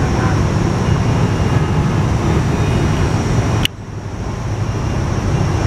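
Diesel locomotive running with a heavy steady rumble and a thin high whine. A sharp click about two-thirds through cuts it off, and the rumble then builds back up.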